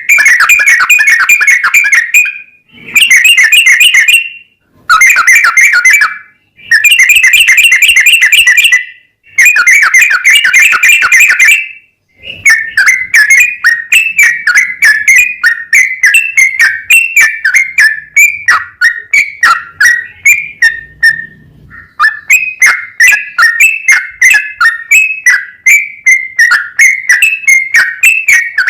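Yellow-vented bulbul (trucukan) singing long, rapid runs of notes. There are about five separate two-second bursts, then a near-continuous stream of quick notes through the rest. The song is loud.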